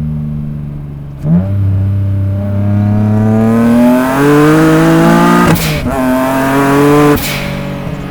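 The 3.5-litre VQ35DE V6 of a single-turbo 2003 Nissan 350Z accelerating hard under load. The engine note climbs steadily in pitch for about four seconds and drops sharply at an upshift with a short burst of noise. It climbs again, then drops with a second burst near the end and settles at a lower, steady note.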